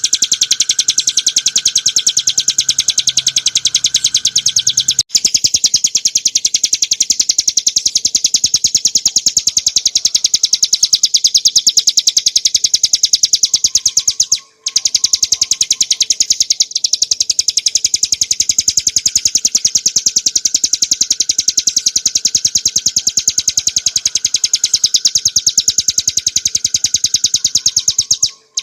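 Ciblek gunung (a prinia) singing a continuous, loud, rapid-fire trill of fast repeated high notes. It breaks off briefly about five seconds in, again about halfway, and just before the end.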